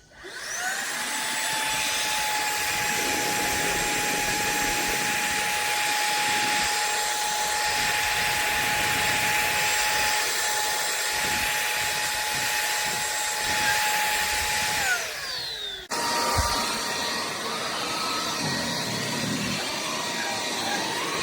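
SunSare X7A cordless stick vacuum's motor running: it spins up with a rising whine, runs steadily, winds down with a falling whine about 15 seconds in, then starts again at once with a slightly higher whine.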